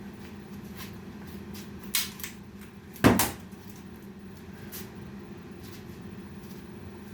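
A sharp knock about two seconds in and a louder bang a second later, like a door or cupboard being shut or something set down hard, with a few light clicks around them, over a steady low hum.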